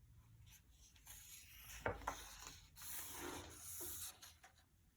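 Faint rubbing and rustling handling noise, with a single sharp click just before two seconds in.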